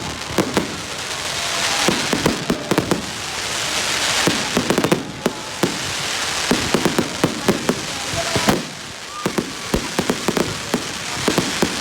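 Fireworks and firecrackers going off: many sharp bangs and crackles in quick succession over a rushing hiss that swells and fades every couple of seconds.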